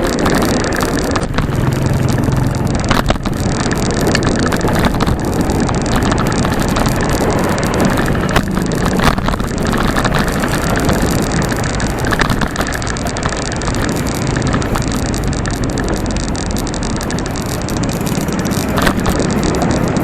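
Steady, loud road noise while riding a bicycle: wind and road rumble on the microphone, with motor traffic on the road, and scattered small clicks and rattles.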